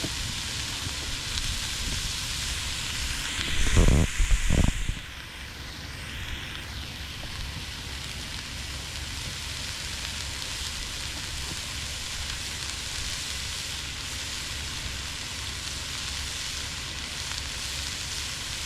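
Food sizzling in a pan on a camp stove, a steady frying hiss. A brief loud low rumble comes about four seconds in.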